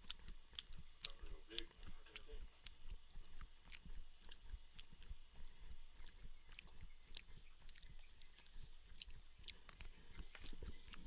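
A person chewing food close to a headset microphone: soft, irregular mouth clicks and smacks, with another spoonful taken near the end.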